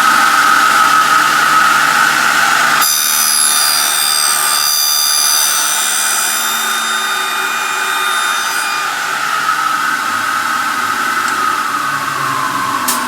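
Graule AKF 6/250 notching milling machine with its motor running in a steady whine. From about three seconds in a shrill, many-toned high ringing of the cutter at work takes over for about six seconds. Near the end the whine falls in pitch.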